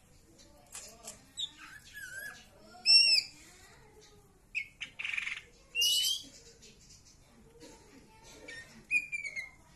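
Young green leafbird (cucak ijo) calling: sharp whistled notes and chirps in separate bursts, the loudest about three seconds in, a brief harsh burst around five seconds, and another cluster of whistles near the end.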